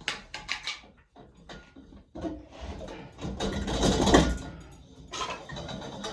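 A few sharp plastic clicks and knocks from a broken ceiling fan being handled, then a noisy whir that swells to a peak and fades away.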